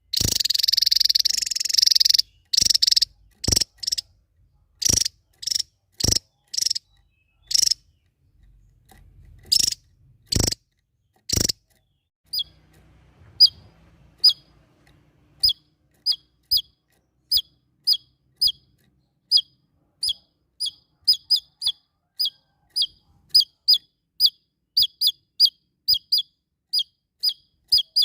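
Small songbird calling. It opens with a harsh rasping burst, then gives a string of sharp clicking notes about every half second. About halfway it switches to short, high, flicked chirps that repeat about two a second and come faster near the end.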